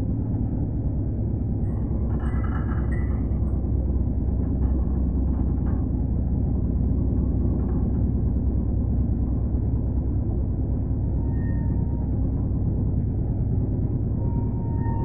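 Passenger train coach rumbling steadily along the track at speed, heard from inside the coach through an open window, with low, even running noise from wheels and wind.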